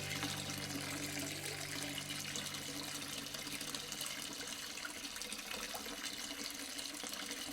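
Water flowing steadily, an even trickling rush. Low held notes fade out over the first few seconds.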